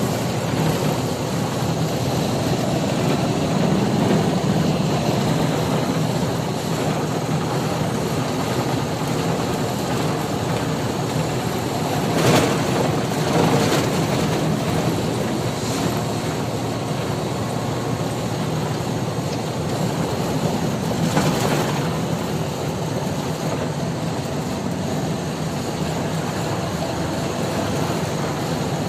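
Steady engine and road noise of a moving truck. Brief louder swells come about twelve seconds in, again a second and a half later, and once more around twenty-one seconds.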